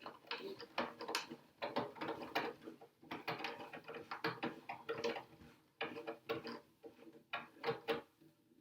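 Irregular clicking, rattling and ratcheting of small hard plastic and metal parts as an RC truck is worked on by hand with a screwdriver.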